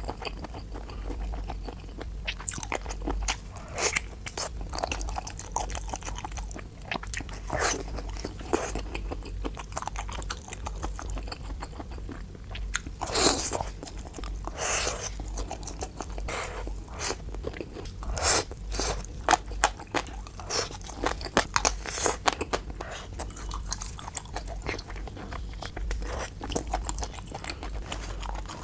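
A person chewing and biting food close to the microphone: a continuous run of short crunches and wet clicks, with the loudest bite about halfway through.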